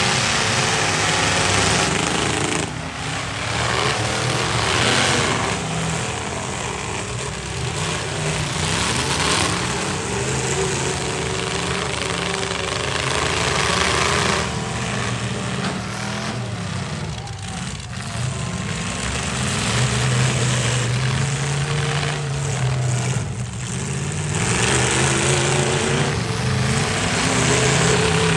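Demolition derby trucks' engines running and revving hard, a loud rough mix whose pitch rises and falls.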